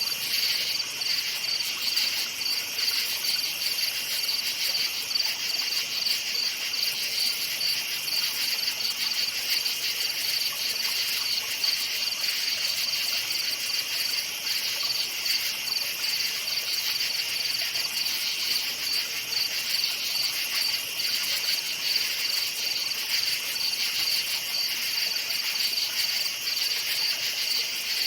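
Crickets chirping in a steady, dense chorus, a continuous high-pitched trilling with fine rapid pulses.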